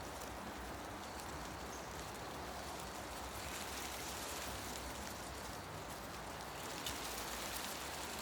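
Wind moving through tree leaves in a forest, a steady rustling hiss with a low rumble underneath, and a few faint, short high ticks near the end.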